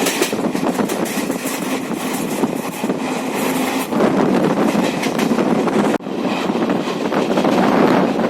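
Passenger train running on the rails, a steady running noise that grows louder about four seconds in, with a brief dropout about six seconds in.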